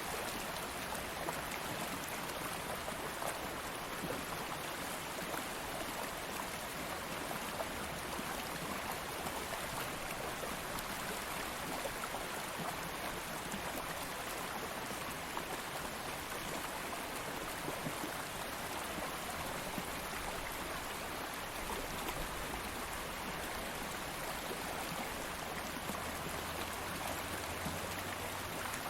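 Stream water flowing steadily over rocks, an even rushing and babbling with no breaks.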